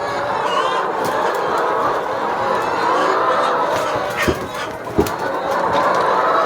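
A flock of chickens clucking and calling together in a steady chorus, with two short knocks about four and five seconds in.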